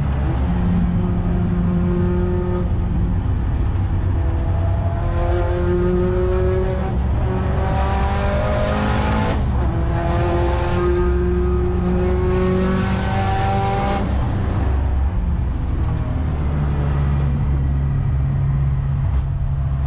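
Car engine heard from inside the cabin, accelerating hard at highway speed. Its pitch climbs and drops back at three gear changes, then runs more steadily near the end.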